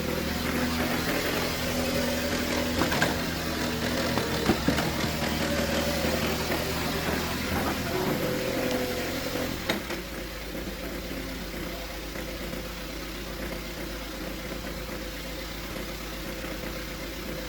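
Excavator's diesel engine running steadily, with a few sharp knocks over it; about ten seconds in the engine note changes and the sound becomes quieter.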